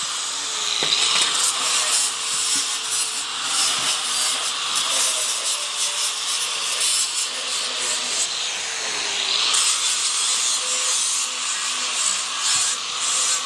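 Handheld power tool grinding or sanding metal, running steadily; its motor pitch sags briefly about a second in and again around nine seconds as it is pressed into the work.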